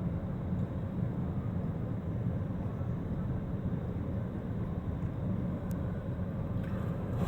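Ocean surf and wind on the beach: a steady low rumble.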